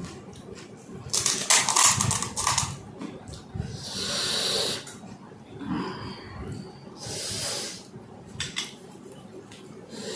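Close-up eating of crisp pani puri: a cluster of crunching as the puri shells break, about a second in, then two hissing slurps, one near the middle and one later.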